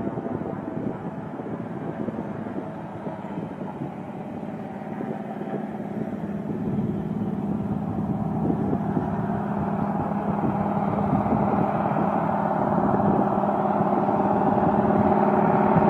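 De Havilland DHC-2 Beaver's engine and propeller running steadily and growing louder as power comes up for the takeoff run.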